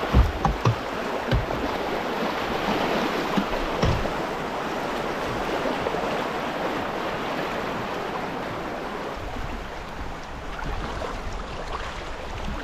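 River water rushing and splashing past a kayak paddling down moving current. There are a few low knocks in the first few seconds.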